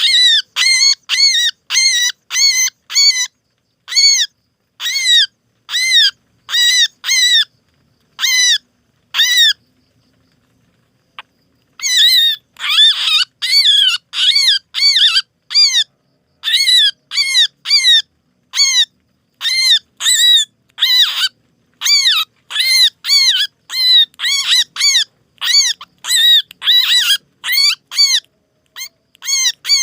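Small bird's harsh distress calls, as used to lure birds: short arched calls repeated about two to three a second in long runs, with a pause of about two seconds around ten seconds in.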